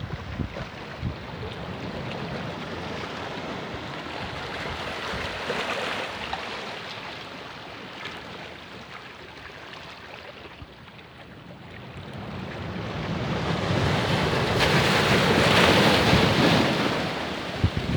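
Ocean surf on a beach: waves breaking and washing in, with one wave building to a loud crash about two-thirds of the way through and then easing off. Wind buffets the microphone.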